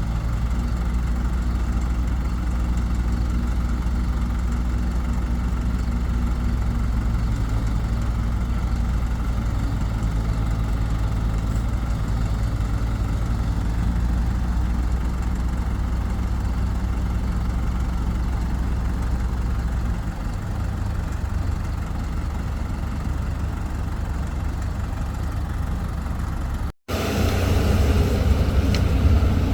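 Excavator's diesel engine running steadily with a low hum. Its note shifts about two-thirds of the way through. Near the end the sound cuts out for an instant and resumes louder.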